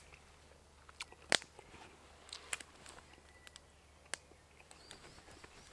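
A person chewing and crunching a mouthful of breadcrumbed chicken-of-the-woods mushroom, with a few short sharp crunches. The loudest comes about a second and a half in.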